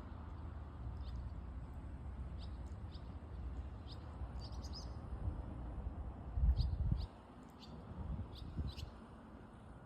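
Small birds chirping in short, scattered calls over a low, steady wash of sea waves. A louder low rumble swells a little past the middle and stops abruptly about seven seconds in.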